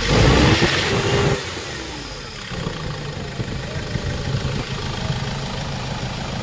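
Hyundai Starex diesel engine running, louder for about the first second and a half and then settling to a steady idle. Three of its four fuel injectors have just been replaced, and the fuel knock is gone.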